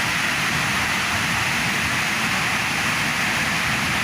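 Waterfall close by: the steady, even rush of falling water.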